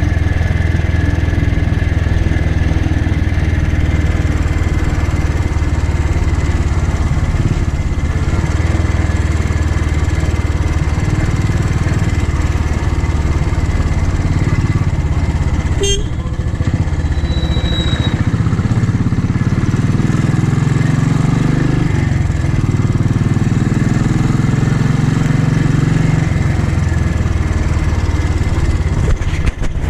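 Royal Enfield motorcycle engine running steadily while riding, its pitch shifting up and down in the second half. A single sharp click comes about halfway through.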